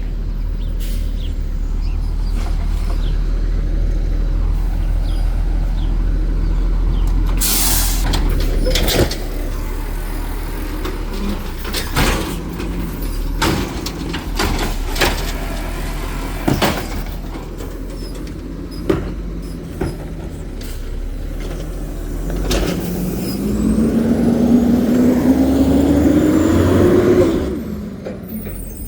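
Garbage truck engine running steadily, with a hiss of air brakes about eight seconds in and a series of sharp knocks and clangs over the next several seconds. Near the end the engine revs up in a rising tone for about five seconds, then drops away.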